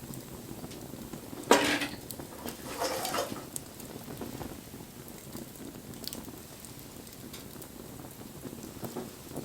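Campfire burning with a soft, steady crackle. A sharp, loud knock comes about a second and a half in, and a weaker rattling noise follows about a second later.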